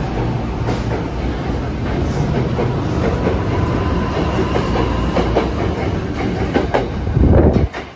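NJ Transit Arrow III electric multiple unit rolling past along the platform, a steady low rumble with wheels clicking over rail joints. It swells briefly near the end, then cuts off suddenly.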